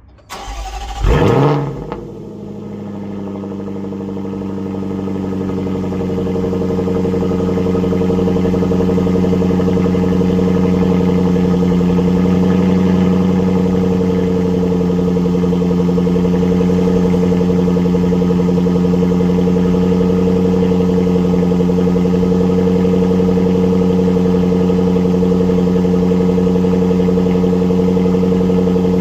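Range Rover L405's supercharged 5.0-litre V8 starting with a sharp rev flare about a second in, then settling into a steady idle through a valved exhaust with the resonator deleted, growing louder over the next several seconds before holding steady.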